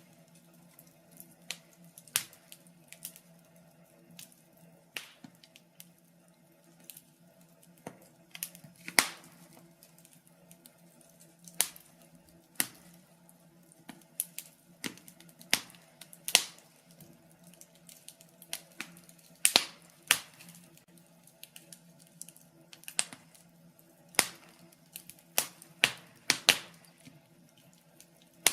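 Wood fire in a fireplace crackling, with irregular sharp pops and snaps from the burning logs, some much louder than others, over a faint steady low hum.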